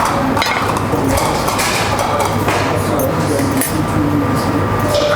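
Clinks and knocks of dishes and utensils against a steady, loud kitchen background hum.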